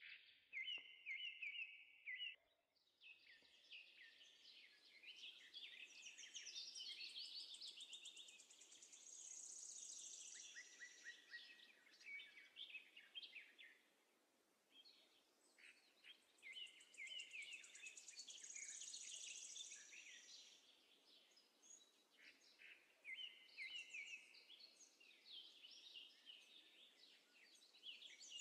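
Faint, high-pitched bird chirping and trilling, with the same phrases coming back partway through.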